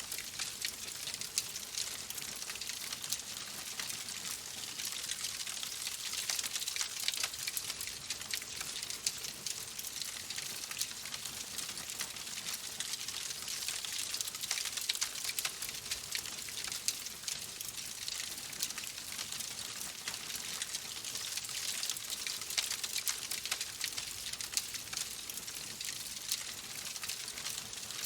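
Wood fire in a fireplace crackling steadily: a dense run of small pops and snaps over a soft hiss.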